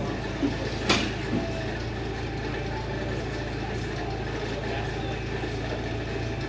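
A truck engine idling steadily with a low hum. Several short knocks or clanks come in the first second and a half.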